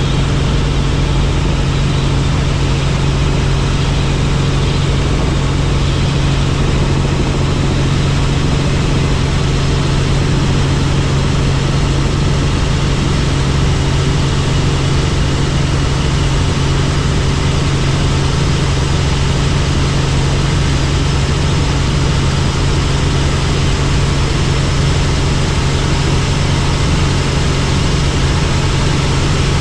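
Helicopter in flight: a loud, steady drone of engine and rotor with a strong low hum that does not change.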